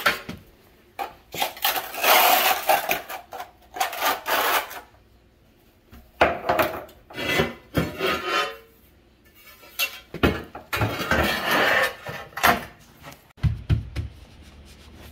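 Notched steel trowel scraping and spreading thinset mortar over tile and floor in irregular strokes, in three runs of scraping with short pauses between.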